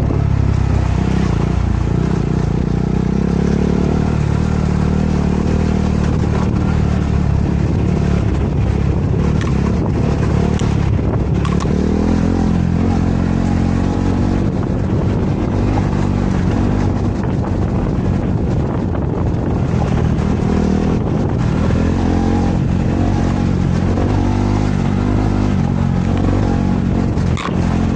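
KTM 390 Adventure's single-cylinder engine running as the bike is ridden along a dirt trail, its pitch rising and falling with the throttle.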